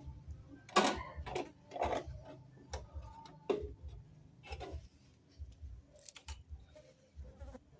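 Irregular clicks and knocks of tools and parts being handled during a refrigerator filter-drier change, loudest in the first few seconds and fainter later, over a low steady hum.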